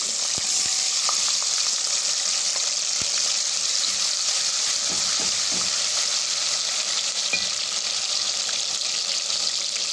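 Ginger-garlic paste sizzling steadily in hot oil in a metal pot while being stirred with a spatula, with a few light knocks of the spatula.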